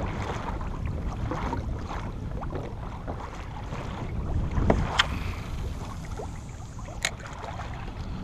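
Water sloshing against a fishing kayak's hull with wind buffeting the microphone, and two sharp knocks, about five and seven seconds in.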